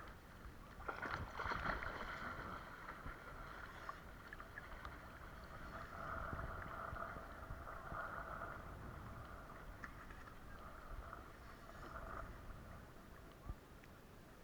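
Sea water splashing and sloshing around a swimmer stretched out face down, loudest about a second in.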